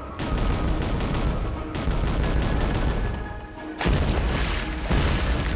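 Cartoon battle sound effects of a naval cannon barrage: rapid, overlapping cannon shots and explosions. Fresh volleys break out about two seconds in and again near four seconds.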